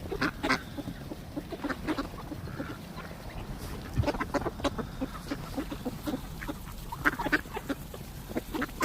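A group of ducks quacking: many short calls coming in bunches, busiest about half a second in, around four seconds and around seven seconds.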